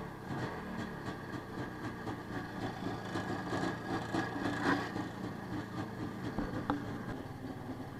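IZh Planeta motorcycle's single-cylinder two-stroke engine idling steadily while it warms up in the winter cold.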